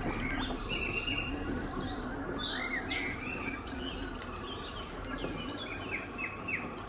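Wild birds chirping and singing: a busy run of quick high chirps and whistles, with a few short falling notes near the end, over a steady low background noise.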